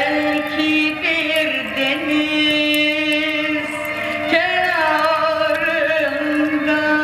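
A voice singing Turkish art music: long held notes with wavering, ornamented melisma, one sustained note dipping and sliding at about four seconds in.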